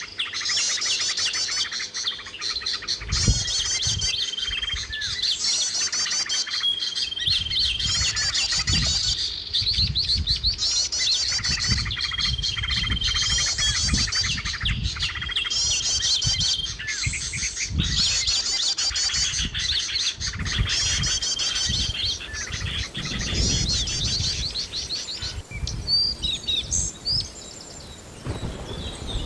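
A songbird singing a repeated song, each phrase a fast, high trill, with a steady whistled note between phrases, about every two seconds. A low rumble sits underneath. Near the end the regular song stops and only scattered chirps remain.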